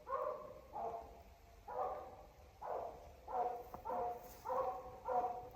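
Treeing walker coonhound barking faintly at a tree, a string of about nine short barks that come faster in the second half: the bark of a hound that has treed and seems sure of her raccoon.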